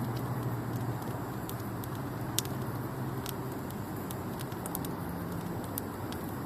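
Wood campfire burning, with a steady low rush and a few sharp, isolated crackles and pops.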